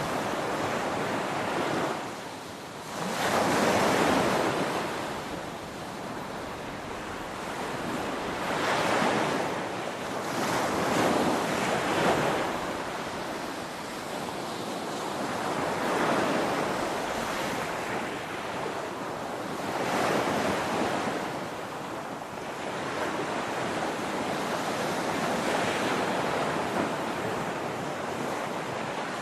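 Ocean surf breaking on a shore: a continuous wash of waves that swells and falls back every few seconds, the biggest surge a few seconds in.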